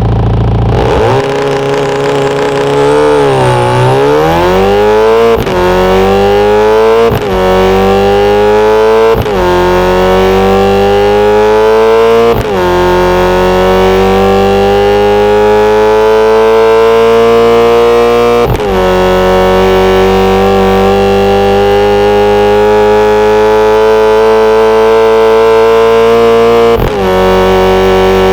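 Synthesized Volkswagen Golf R four-cylinder turbo engine sound doing a launch and full-throttle acceleration run. It holds steady revs at first, dips as it pulls away, then climbs through six quick DSG upshifts. At each shift the pitch drops suddenly and then rises again, and each gear lasts longer than the last.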